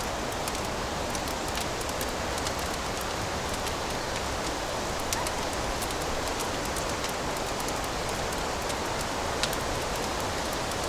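Fire crackling in a fireplace: a steady hiss with scattered sharp pops, two of them a little louder about five and nine and a half seconds in.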